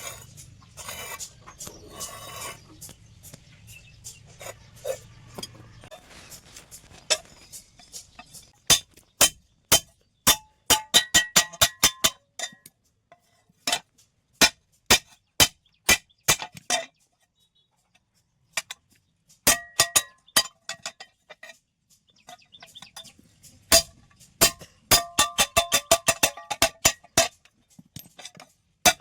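Hammer blows on a steel plate, ringing sharply with each strike. They come in runs of about two to three strikes a second, starting about a third of the way in, with a short pause near the middle. Before them there are only fainter scattered knocks over a low hum.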